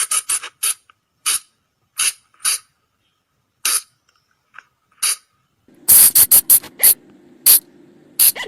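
Sunda colugo (flying lemur) calling: short, sharp, high-pitched calls, first a quick run of about six, then single calls spaced roughly a second apart. From about six seconds in comes a rapid burst of calls over a low steady hum.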